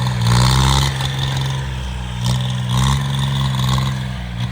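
Engine of a homemade 26 hp tractor running steadily.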